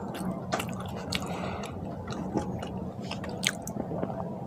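Close-miked chewing of a last mouthful of rice and curry: wet mouth smacks and sharp clicks at irregular intervals over a steady low hum, with a louder smack about three and a half seconds in.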